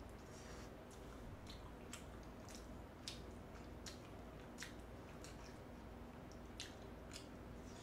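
A person chewing saucy spicy braised chicken, with faint wet mouth clicks and smacks at irregular intervals.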